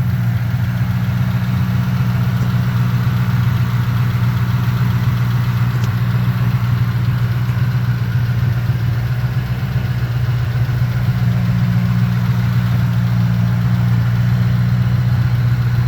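Ford 4.6-litre DOHC V8 from a 2003–2004 Mustang Mach 1 idling steadily and evenly, with no revving; the engine is in very good running condition.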